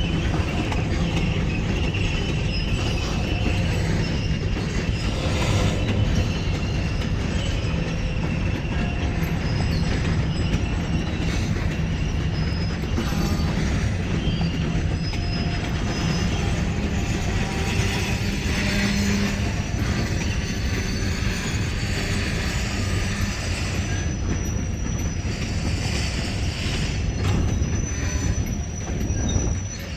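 Freight train cars rolling past steadily, with a continuous rumble of wheels on the rails and thin, high wheel squeals now and then, most clearly near the end.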